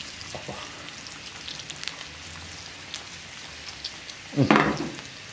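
Eggs and sucuk (Turkish sausage) frying in a pan, a steady sizzling hiss with scattered small pops and crackles. A short voice sound comes about four and a half seconds in.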